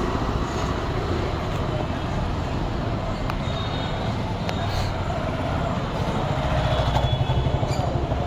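A motor vehicle engine running steadily with a low, rapidly pulsing rumble.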